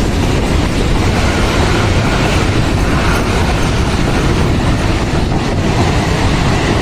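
Freight train passing, its wagons' wheels running on the rails with a loud, steady noise.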